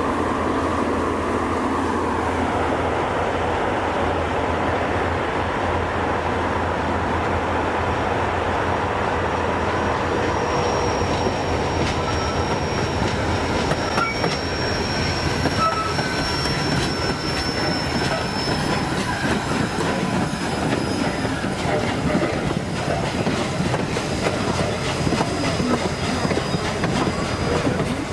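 Train rolling past on steel rails, wheels clicking over rail joints, with a thin, high wheel squeal that comes in about a third of the way through and fades near the end.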